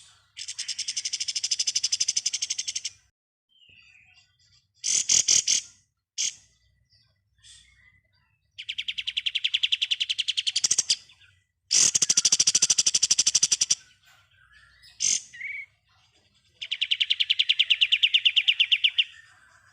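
Kapas tembak songbird singing its 'ngebren' song: long, very fast rattling trills like a machine gun, each about two seconds, repeated five times with short chirps between.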